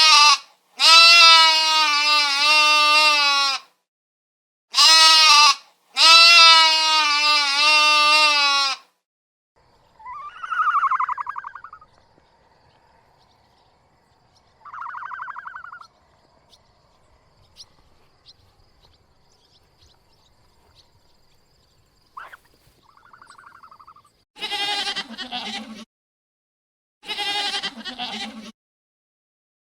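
Sheep bleating: several long, loud, wavering bleats, then two shorter, higher-pitched calls, and three more bleats near the end.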